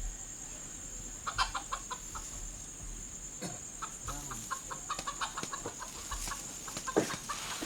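Domestic chickens clucking: a run of short, repeated clucks over a steady high-pitched whine, with a few louder, sharper notes near the end.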